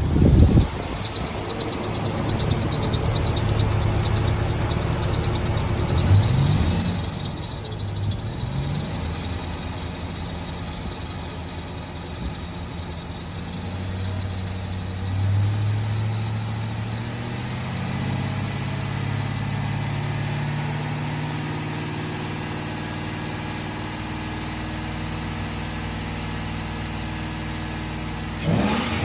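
2006 Chevy Silverado's 5.3-litre V8 running, its revs rising briefly about six seconds in and then climbing slowly and steadily through the second half. A steady high-pitched buzz sits over the engine throughout.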